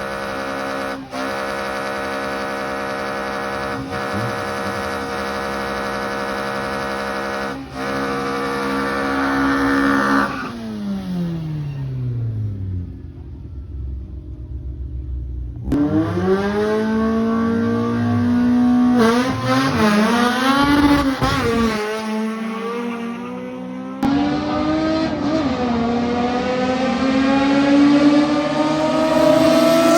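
Drag-racing car engines at high revs. A steady engine note falls away about ten seconds in, then engines rev up and down again, and near the end one accelerates hard with its pitch climbing steadily.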